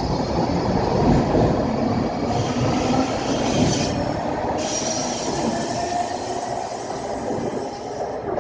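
A Baltimore Metro subway train of Budd-built cars pulling out of the station, its wheels running on the rails in a steady, loud rush that eases slightly near the end.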